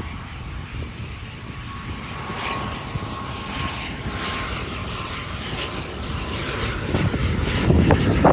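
ATR 72-600 turboprop's Pratt & Whitney PW127 engines and propellers, a rumble with a thin steady whine on top, growing louder toward the end as the aircraft draws closer.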